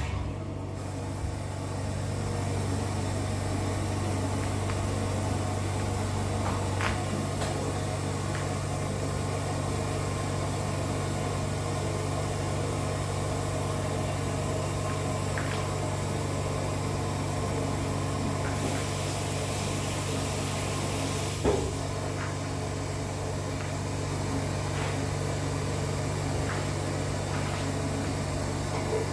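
A steady low droning hum that does not change, which the speaker insists is not the bathroom fan. A brief hiss comes in about two-thirds of the way through, and a single knock follows it.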